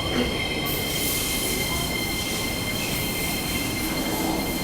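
JR Saikyō Line commuter train running: a steady low rumble with two steady high-pitched tones above it, and a hiss that comes in under a second in.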